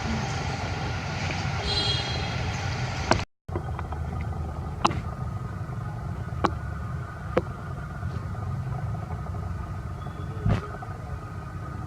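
Steady low outdoor rumble, broken by a short dropout a little after three seconds, with four sharp clicks scattered through the rest.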